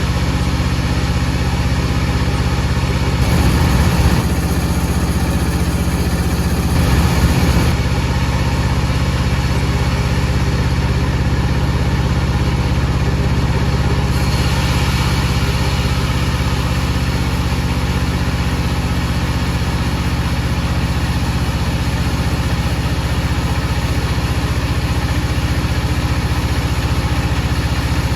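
Power saw for cutting wood running steadily with a low machine hum, with two brief louder, rougher stretches about four and seven seconds in.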